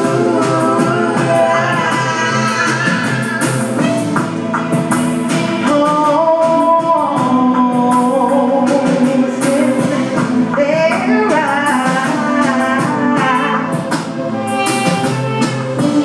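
Live electronic music with a female singer's voice over a steady beat, recorded in a club.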